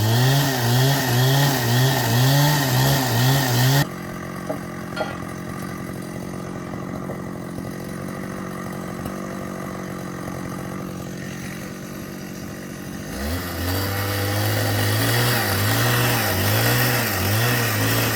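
Engine-powered drill boring into wood, its small motor wavering in pitch about twice a second under load. Near 4 s in it drops to a steady idle. About 13 s in it revs up and bores again.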